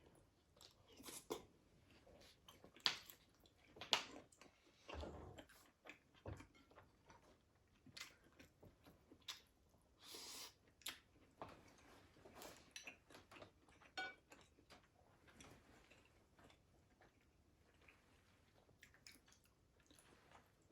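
Close-up chewing of fried meatballs: soft, wet mouth sounds and scattered short clicks and smacks, with no talking.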